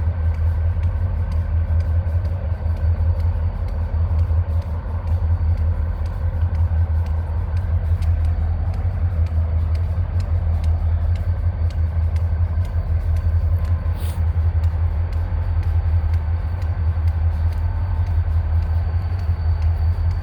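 An engine idling steadily with a deep, low hum, with one short click about two-thirds of the way through.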